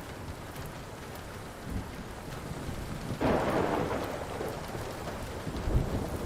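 Steady rain with a thunderclap that breaks sharply about three seconds in and rumbles away over a second or two, and another low rumble near the end. Light crackles of a wood fire tick through it.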